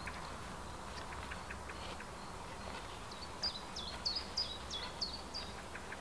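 A songbird sings a short phrase of about seven repeated high notes, each dropping in pitch, about three a second, a little past the middle. Faint small ticks come before it.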